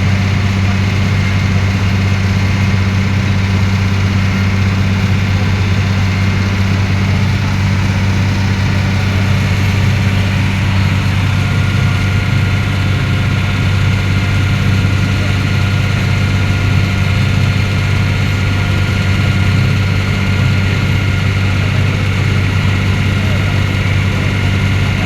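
Passenger ferry's engine running steadily with a deep, even drone.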